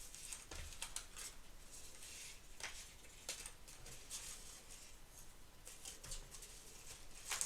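Paper cutouts being sorted and shuffled by hand: soft, scattered paper rustles, with a louder rustle near the end.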